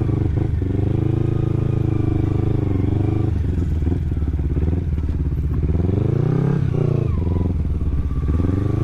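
Kawasaki Ninja 250's carbureted parallel-twin engine running through an Akrapovic exhaust while riding. The pitch holds steady, falls off, then rises with a short rev about two-thirds of the way in and drops back.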